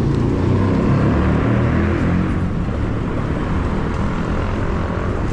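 Steady low rumble of riding along a road: wind buffeting the camera microphone, mixed with road and traffic noise.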